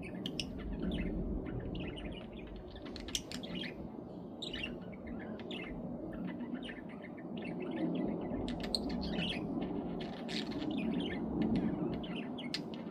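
Budgerigars chattering and chirping in quick, short bursts throughout, over a steady low background rumble.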